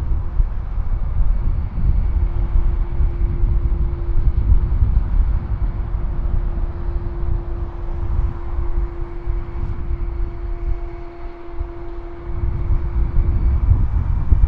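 Jet airliner engines running with a steady hum, under heavy wind buffeting on the microphone; a second, higher tone joins near the end before the hum cuts out.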